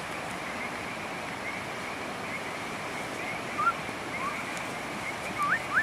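Steady hiss of rain. A faint chirping repeats a few times a second under it, and several short rising whistled calls come in the second half of the clip, the loudest sounds in it.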